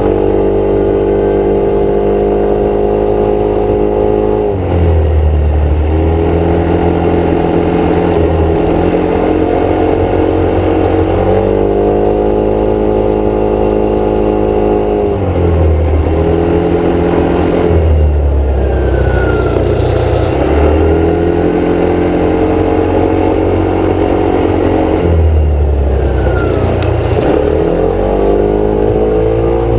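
A motor vehicle's engine running, its pitch dropping and climbing again every few seconds as it slows, speeds up or changes gear.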